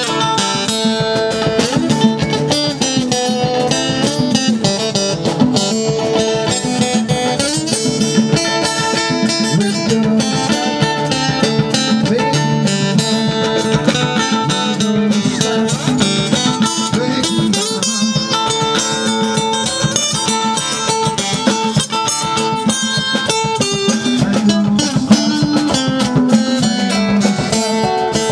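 Live band playing an instrumental rock jam led by guitars, with steady percussion.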